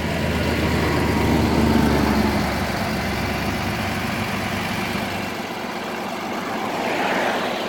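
Heavy truck engine idling with a steady low rumble, which fades out about five seconds in.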